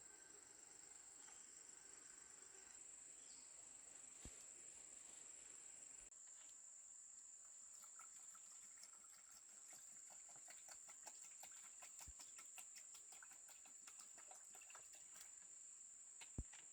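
Faint, steady high-pitched insect trill, typical of crickets or cicadas. From about halfway through, a run of small clicks and crackles joins it, and there is one sharper knock near the end.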